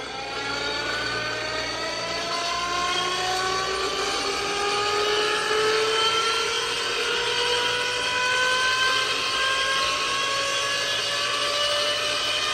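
Inertia starter on a 1948 Harley-Davidson being spun up: a whine that climbs slowly and steadily in pitch as the starter's flywheel gathers speed.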